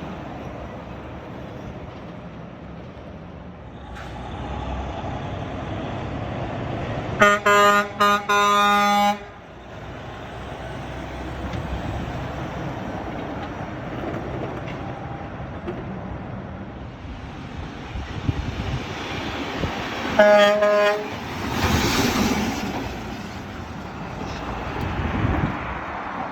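Road traffic passing, with a truck's air horn sounding in a few short blasts about seven seconds in and one more blast about twenty seconds in, followed by a vehicle passing close.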